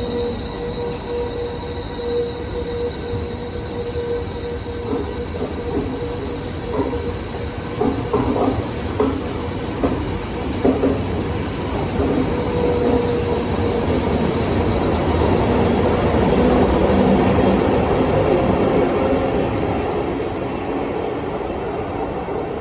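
A train running past at a station: a steady high tone at first, then a run of knocks from the wheels over the track, the running noise swelling to a peak past the middle and easing off near the end.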